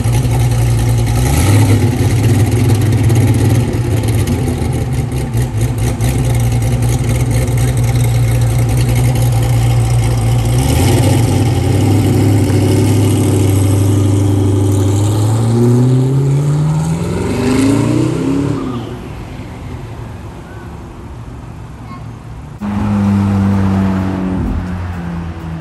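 Hennessy Venom F5's twin-turbo V8 idling with a steady low drone, then revving in a rising sweep about fifteen seconds in as the car pulls away, and fading. Near the end, after a cut, a McLaren Elva's V8 runs steadily at a higher pitch.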